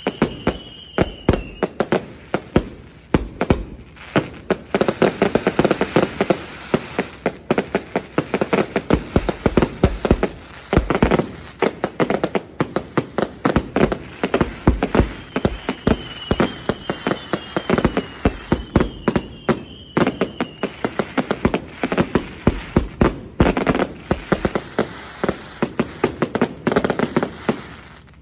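Fireworks display: a rapid, continuous barrage of bangs and crackling from bursting aerial shells, with short falling whistles near the start and again about halfway through.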